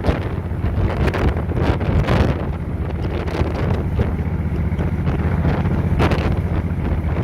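Heavy wind buffeting the microphone on a moving motorcycle, in irregular gusts, over a steady low engine drone.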